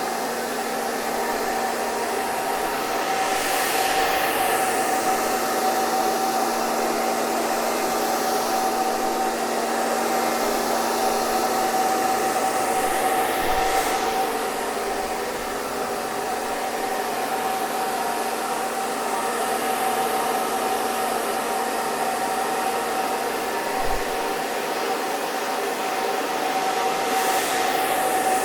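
Hair dryer running continuously: a steady rush of air with a constant motor whine and a lower hum. The airflow swells in a slow whoosh about every ten seconds.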